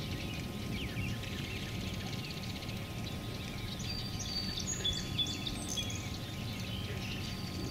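Birds chirping and calling over a steady low outdoor rumble, with a cluster of short, high chirping notes about four to six seconds in.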